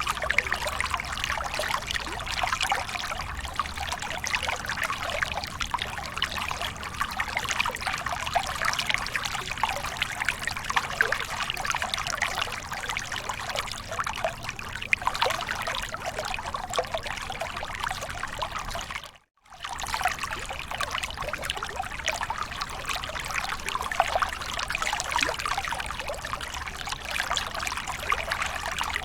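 Small waterfall: water pouring and splashing steadily, a dense trickling rush. It cuts out for a moment about two-thirds of the way in, then resumes unchanged.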